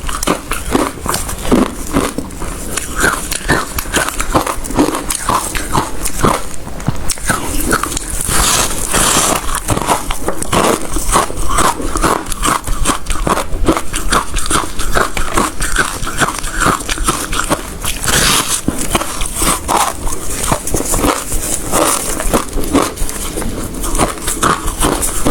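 Close-up crunching of hard ice being bitten and chewed, a rapid run of sharp cracks with no pause.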